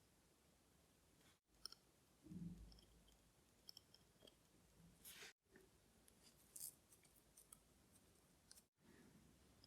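Near silence broken by faint, scattered small clicks and ticks of watchmaker's tools against watch movement parts during disassembly, with a soft thump about two and a half seconds in.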